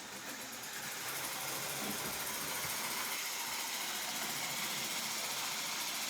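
Small electric motor and gears of a battery-powered toy train running at full power, pushing a string of coaches; a steady whirring that builds during the first second and then holds.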